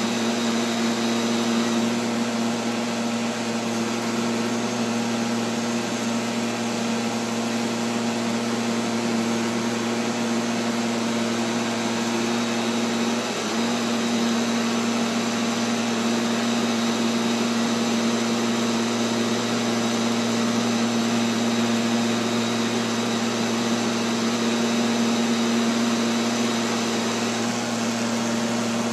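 Neato XV-11 robotic vacuum cleaner running steadily, its motor's hum heard from a camera mounted on the robot, with a brief wobble in pitch about halfway through.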